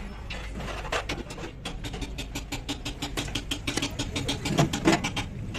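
A fast run of sharp clicks, about seven a second, over a low steady hum; the clicks begin about a second in and are loudest near the end.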